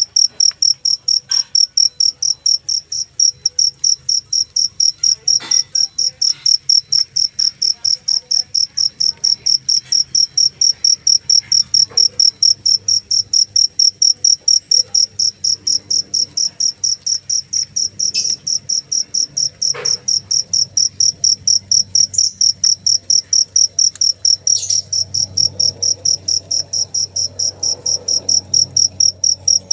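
A cricket chirping loudly and close up, one high, clear chirp repeated in an even rhythm of about three to four chirps a second.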